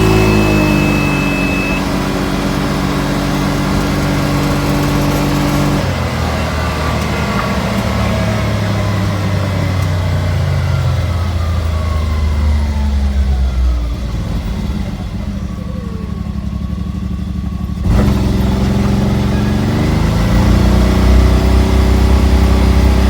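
Can-Am vehicle engine running with a misfire. Its pitch holds steady, drops about six seconds in, jumps back up suddenly about eighteen seconds in, then rises again around twenty seconds and holds.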